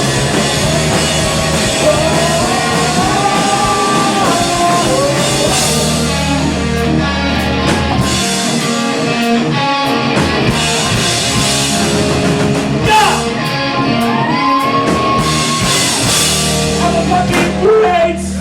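Live rock band playing a song: drums with cymbal crashes, electric guitars and vocals.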